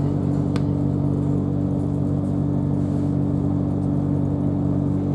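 Steady drone and rumble inside a Class 377 electric multiple unit running at an even speed: several level, unchanging hum tones over the low rumble of the running gear.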